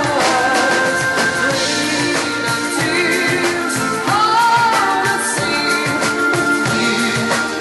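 Live dance-band music with a singer's voice carrying the melody.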